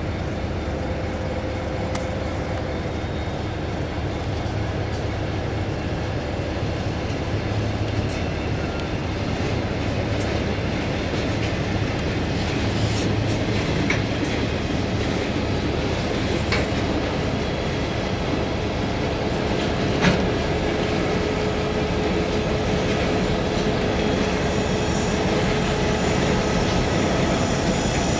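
Freight train rolling by with a steady rumble, its wheels clicking over rail joints now and then, the sharpest click about 20 seconds in. It grows slowly louder, and a thin steady whine joins in after about 19 seconds.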